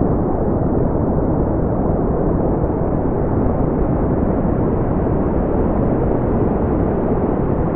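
Brown noise: a steady, loud, deep rushing hiss, heaviest in the low end and fading out toward the highs, with no change in level.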